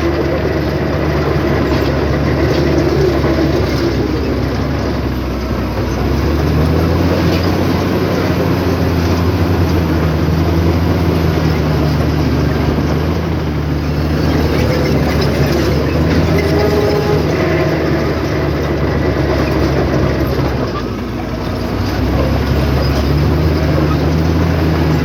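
Heavy diesel earthmoving machinery running steadily under load, its engine easing briefly about three-quarters of the way through before picking up again.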